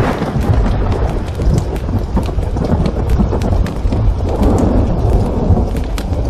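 Thunder rumbling over steady rain: a sharp break at the start, then a long roll that swells again about four seconds in. Sharp crackles of a wood fire in a fireplace sound throughout.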